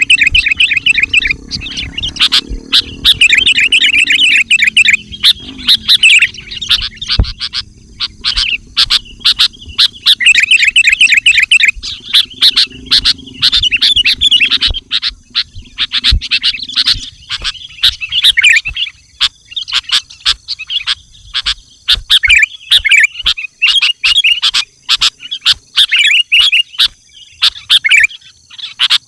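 Sooty-headed bulbul (kutilang) singing energetically: loud, rapid chattering phrases in repeated bursts. A low steady hum runs underneath for the first half and stops a little past the middle.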